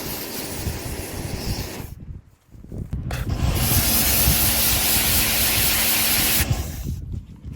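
Pressure washer spraying water, a loud steady hiss with a low hum from the pump under it. The spray stops about two seconds in, starts again about a second later, and cuts off near the end.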